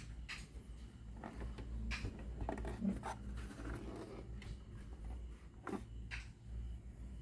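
Steady low electrical hum with scattered light clicks and scrapes, typical of handling noise; the loudest knock comes about three seconds in.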